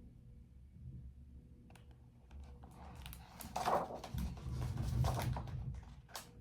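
Handling noise: scattered light clicks and rustling over a low steady room rumble, growing busier about halfway through.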